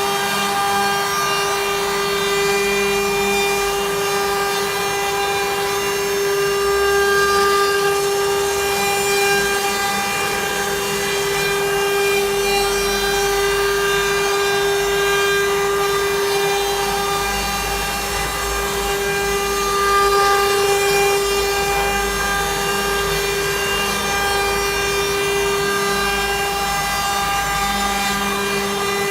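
CNC router spindle carving wood, running with a steady high whine under the noise of the cut.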